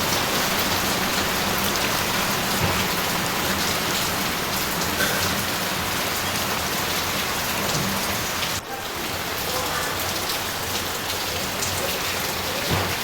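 Steady rain falling, an even hiss of drops that dips for a moment about eight and a half seconds in.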